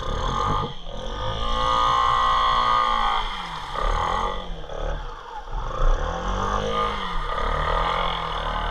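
ATV engine revving up and easing off about five times in first gear, its pitch rising and falling with each rev.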